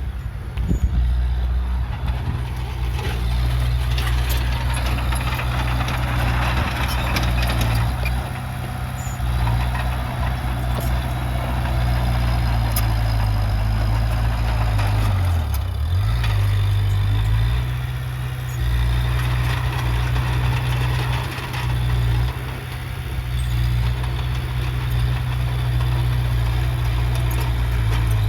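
Heavy diesel engine of earthmoving equipment running steadily under work, its speed dropping and picking up again briefly about halfway through, with a changing rushing noise above it.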